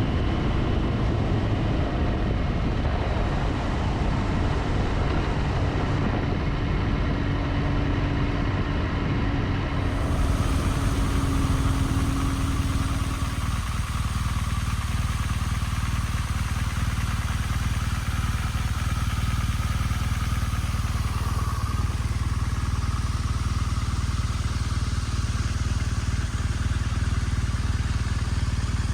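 Motorcycle running while being ridden, its engine heard under steady wind and road noise. The sound shifts in character about ten seconds in.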